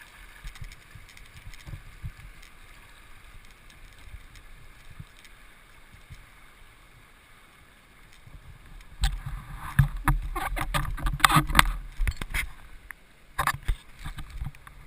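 River water rushing past a kayak, then about nine seconds in a few seconds of loud, choppy splashing and knocks, with one more short burst of splashing near the end.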